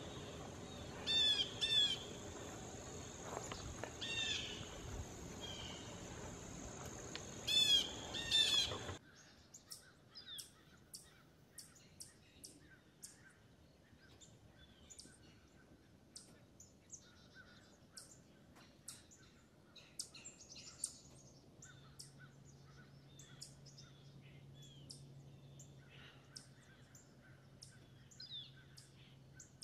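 Birds calling: loud, repeated squawking calls over a background hiss for about the first nine seconds, then an abrupt cut to a quieter stretch of many short, high chirps from small birds.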